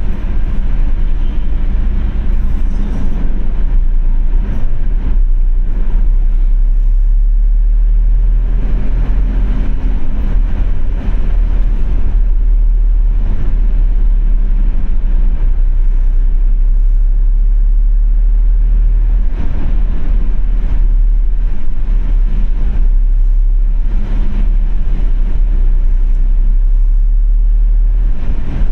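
A car driving along a road, with a steady low rumble of road and engine noise and a faint hum that rises and falls slightly. Occasional short light taps or knocks run through it.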